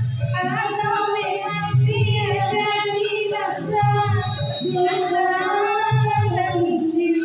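Pop song: a young female voice sings over a backing track with a pulsing bass.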